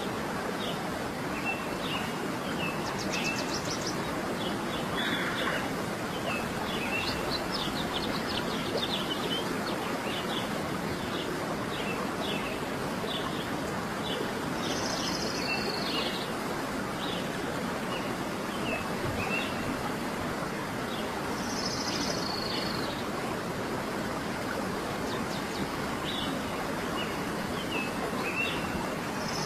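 Small birds chirping and twittering in many short repeated notes, with a few higher calls now and then, over a steady even rush of background noise.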